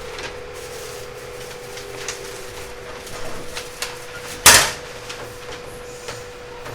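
Inside a JNR 189-series express electric multiple unit car: a steady electrical hum over low rumble, with light clicks and rattles and one loud knock about four and a half seconds in.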